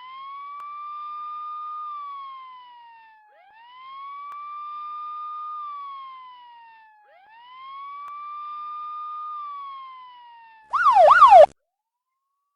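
Police car siren sounding a slow wail, each cycle rising quickly, holding, then falling, three times over. Near the end comes a brief, louder burst of fast up-and-down yelp before it stops.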